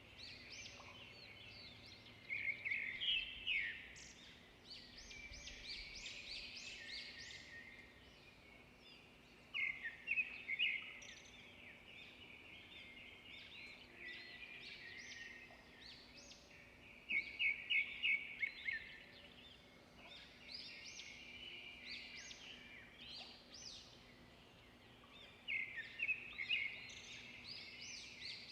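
Songbirds singing in a continuous chorus of high chirps and trills, with louder runs of quick repeated notes every seven or eight seconds.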